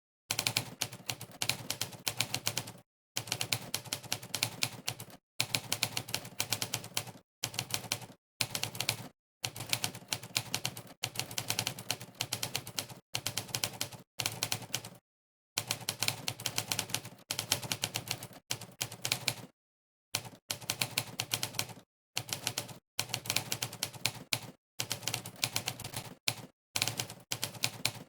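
Monkeytype's typewriter keypress sound effect: a sampled typewriter key strike played for each keystroke, many strikes a second. The strikes come in quick runs broken by short, dead-silent pauses every second or two.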